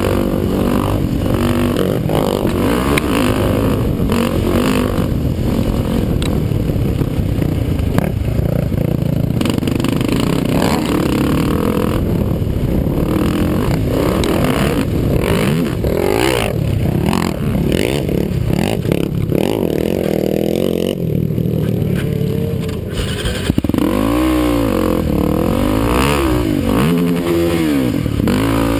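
ATV (quad) engine running hard at racing pace, with short knocks and rattles throughout; in the last few seconds the revs climb and drop again and again.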